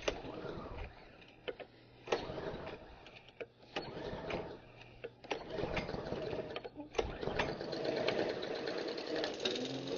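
Petrol lawn mower engine being pull-started: irregular sputtering strokes at first, then the engine catches and settles into a steady run about seven seconds in.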